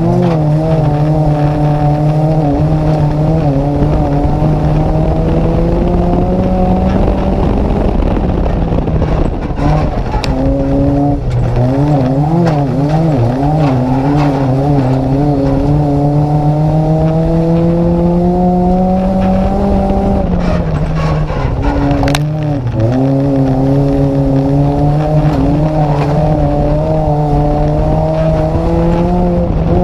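A Nissan Micra race car's engine heard from inside the car under racing load. The revs climb slowly, drop sharply about ten seconds in and again a little after twenty seconds as the driver shifts or lifts, and waver up and down for a couple of seconds after the first drop.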